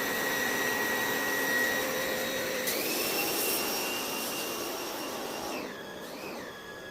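Electric motor of a cleaning machine running with a steady whine. Its pitch steps up about three seconds in, then drops and wavers near the end as the motor slows.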